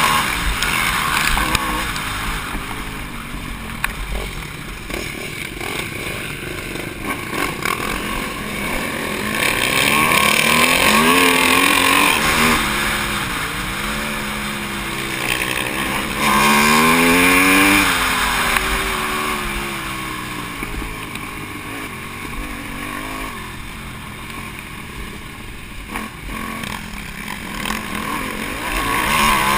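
Aprilia SXV V-twin supermoto engine ridden hard, heard from on board the bike, its revs rising and falling through the gears. The loudest climbs in revs come about ten and sixteen seconds in.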